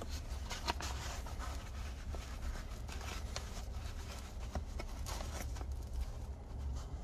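Someone eating a piece of IKEA almond cake: scattered soft clicks and mouth sounds of chewing over a steady low hum.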